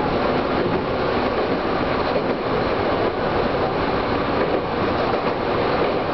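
Chichibu Railway electric train running along the main line, heard from inside the front cab: steady wheel-on-rail running noise.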